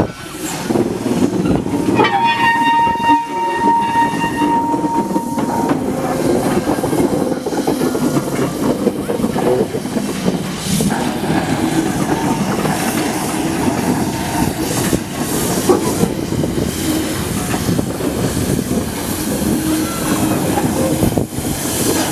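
Goods wagons of a steam-hauled freight train rolling past, wheels clattering and rumbling over the rails. About two seconds in, a steady steam whistle sounds for about three and a half seconds.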